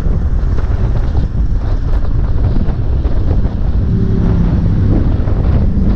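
Heavy wind buffeting on the microphone of a motorcycle under way, with the motorcycle's engine heard beneath it; a steady engine note comes through more clearly about four seconds in.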